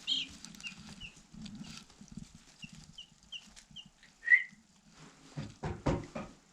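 Three-day-old meat chicks peeping: short high chirps at a steady pace, with one louder peep about four seconds in. A few low knocks or rustles follow near the end.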